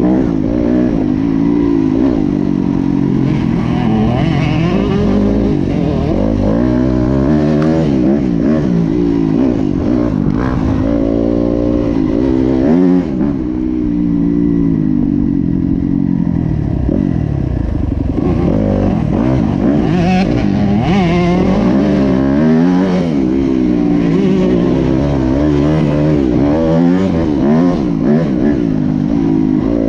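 Motocross bike engine running hard and loud, its pitch rising and falling again and again as the throttle opens and closes and the gears change.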